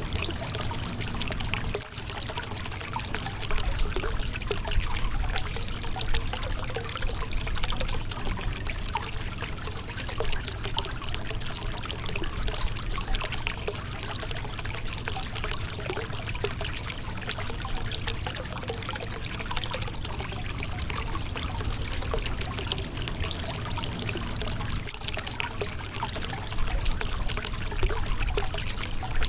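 Shallow river water flowing and splashing steadily over a rocky bed, with a constant babble of small trickles and a low rumble underneath.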